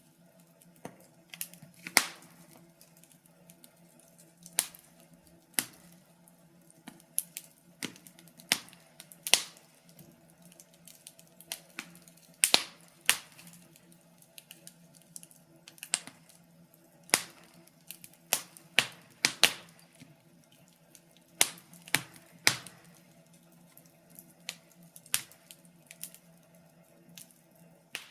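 Wood fire crackling: irregular sharp pops and snaps, a few of them loud, over a faint steady low hum.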